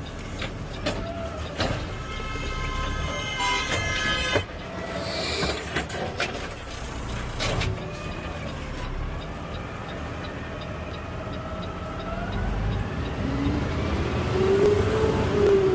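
Garbage truck running, heard from the driver's seat, with scattered clicks and knocks. A horn-like tone sounds for about two seconds early on, and near the end the engine note rises and falls.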